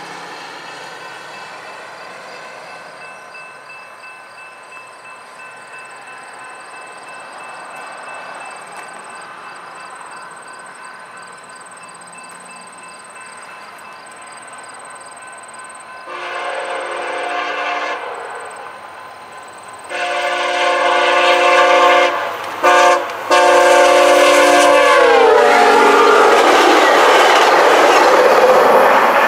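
Approaching train's locomotive air horn sounding several tones at once in the long, long, short, long grade-crossing pattern; the pitch of the last blast drops as the locomotive passes, and the loud rush of the train going by follows.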